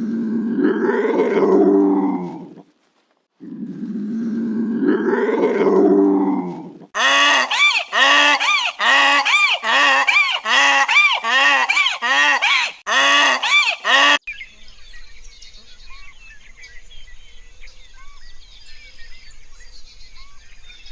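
Animal calls: two long drawn-out calls, then a run of about a dozen short, pitched calls at about two a second, then faint high chirping near the end.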